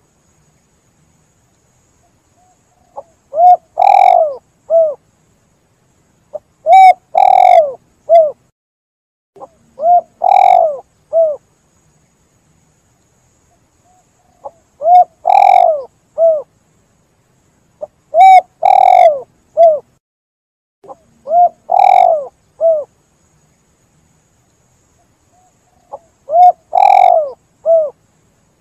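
Spotted dove cooing: seven phrases, each a short coo, a long loud coo and a short closing coo, repeated about every three and a half seconds with silence between.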